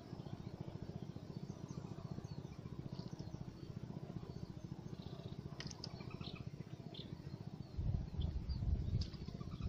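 Faint short bird chirps over a steady low rumble, with the rumble growing louder for about a second near the end.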